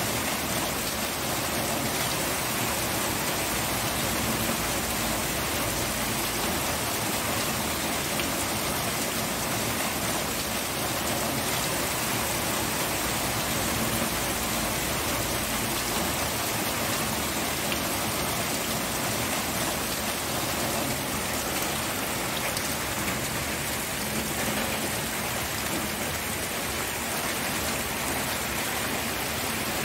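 Steady rain falling and pattering on surfaces, an even, continuous hiss that holds the same level throughout.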